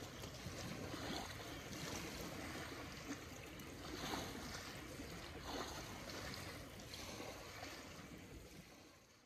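Faint outdoor ambient rush with a few soft crackles, fading out to silence near the end.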